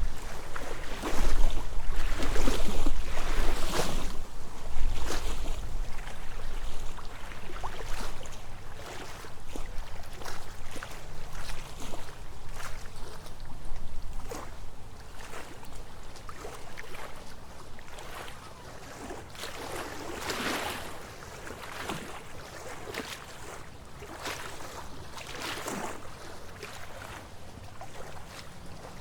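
Wind gusting through trees with leaves rustling in irregular surges, loudest in the first few seconds, when the wind also buffets the microphone with a low rumble, then easing off.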